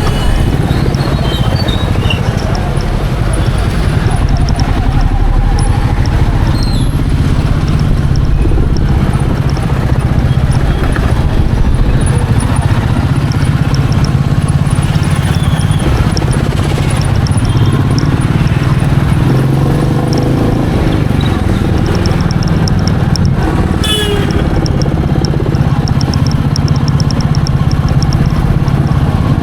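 Royal Enfield Meteor 350's single-cylinder engine running steadily while the motorcycle is ridden, with road noise. A brief sharp sound comes about 24 seconds in.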